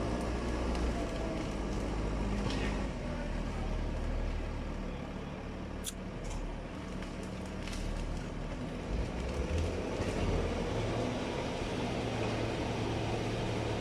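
Diesel engine of an excavator running steadily as it grabs cut branches for loading, with a few sharp clicks about six seconds in.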